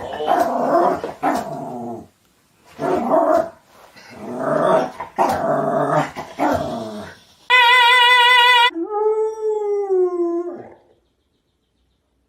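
A dog vocalising in rough, noisy bursts for about seven seconds, then two long howls, the first held and wavering and the second arching and falling away, ending about eleven seconds in.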